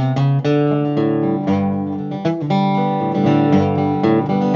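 Acoustic guitar strummed in a steady rhythm, changing chords, an instrumental break between sung lines of a song.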